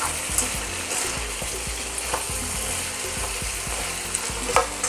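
Vegetables sizzling in a hot pan while a spatula stirs them, with irregular scrapes and taps of the spatula against the pan.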